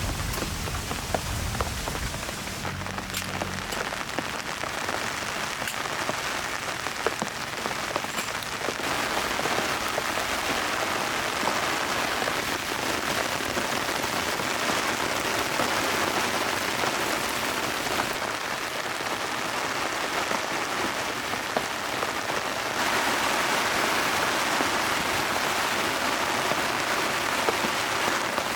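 Heavy rain falling steadily, with scattered individual drops striking close by. There is a low rumble in the first few seconds.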